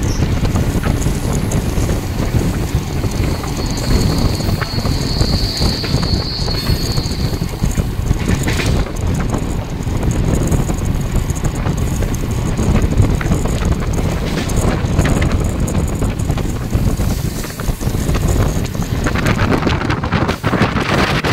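Moving passenger train heard from its open doorway: wheels clattering over the track and wind rushing over the microphone, with a brief high squeal a few seconds in.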